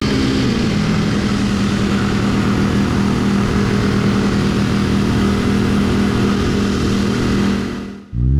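Motorcycle engine running at a steady road speed under heavy wind rush, fading out near the end.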